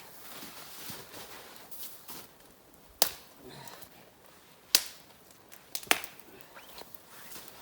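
Spruce branches being gathered: three sharp cracks of wood breaking, the first about three seconds in and two more over the next three seconds, with rustling of branches in between.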